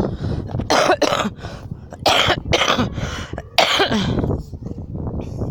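A person coughing several times in short, loud bursts.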